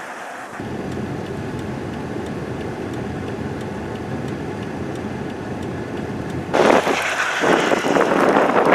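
A motor vehicle's engine running with a steady low rumble. About two-thirds of the way through, a loud rush of wind buffeting the microphone comes in over it.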